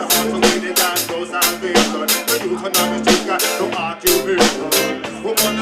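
Live reggae band playing an instrumental passage, with drums keeping a steady beat under sustained instruments.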